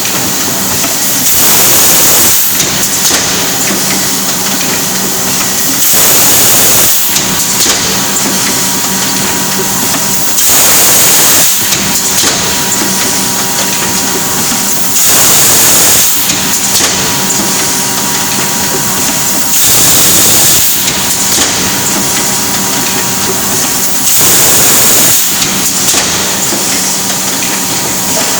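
Spring water gushing out of the mountainside, a loud, continuous hiss that swells for about a second roughly every four and a half seconds.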